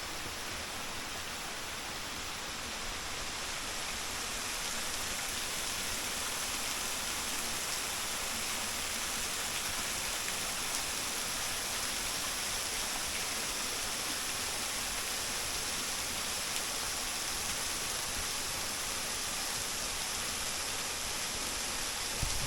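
Small, thin waterfall of about five metres splashing steadily into a mountain stream, with a constant even rush of falling water that grows a little louder about four seconds in.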